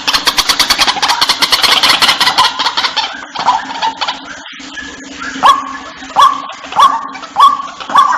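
White-breasted waterhen calls, a recorded lure call: a fast, dense chatter of repeated notes for about three seconds, then after a lull five loud separate calls, each rising sharply at its start, about two a second.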